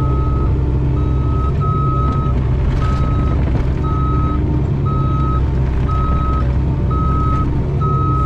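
Mini excavator's diesel engine running steadily while its travel/backup alarm beeps about once a second, each beep about half a second long, as the machine reverses.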